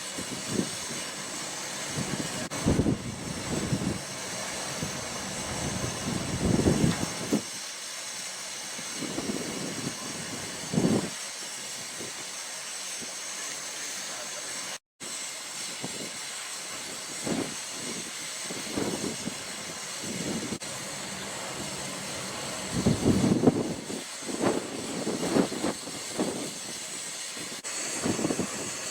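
Steady hiss of steam from a miniature-gauge steam locomotive standing at the platform, with some irregular low rumbles rising and falling over it.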